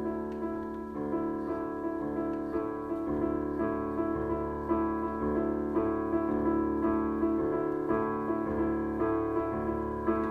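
A sad, self-composed background tune played on a piano-style keyboard: notes changing every half second or so over a held low chord.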